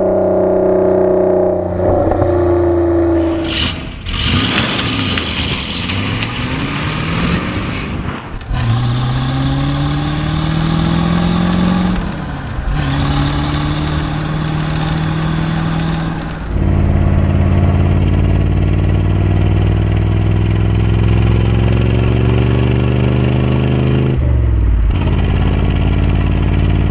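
High-performance car engines running and revving across several short cuts. The pitch climbs steadily between about 8 and 11 seconds in. A long steady stretch from about 16 seconds rises slowly, then drops sharply near the end.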